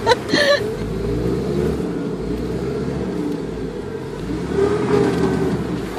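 Jeep engine running steadily under load as it drives off-road through mud, heard from inside the cab.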